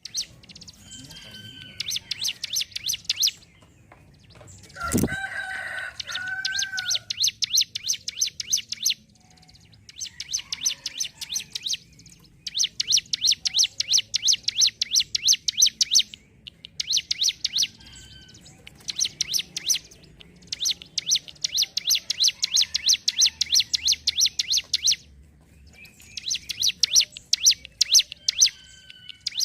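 Ciblek gunung (a prinia) singing its rapid 'ngentrok' song: repeated bouts, each a few seconds long, of fast, evenly spaced sharp notes, with a few thin whistled notes between bouts. A lower, louder call breaks in about five seconds in.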